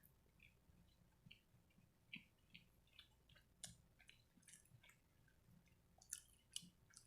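Faint, wet chewing and mouth smacks of a person eating: an irregular scatter of soft clicks, a couple of them louder near the end.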